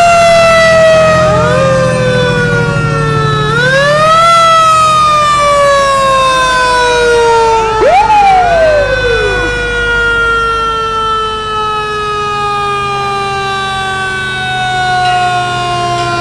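Fire engine sirens wound up again and again, each rising quickly in pitch and then falling slowly, with two or more overlapping, over a steady low rumble.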